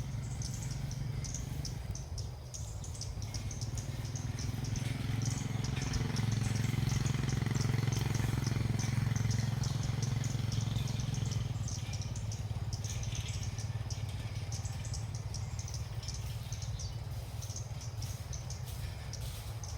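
Small birds giving short, high chirps over and over, over a low engine hum that swells and fades about six to eleven seconds in, like a vehicle passing.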